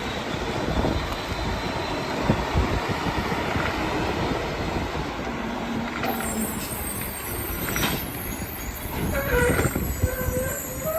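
Garbage truck running, its engine and compactor working with a steady low rumble and noise.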